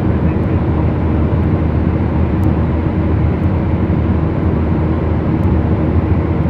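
Beechcraft Duchess's twin four-cylinder Lycoming engines and propellers droning steadily in cruise, heard inside the cabin.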